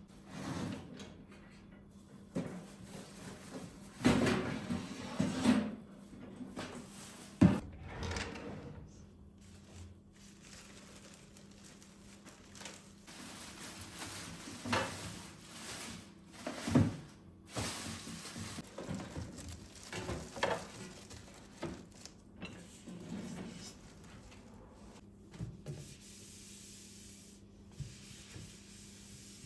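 Household handling sounds: objects knocked and set down at irregular moments, the sharpest about seven seconds in, with rubbing and wiping between them over a faint steady hum.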